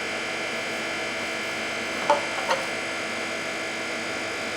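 Steady electrical hum, with two short knocks about half a second apart a little past the middle.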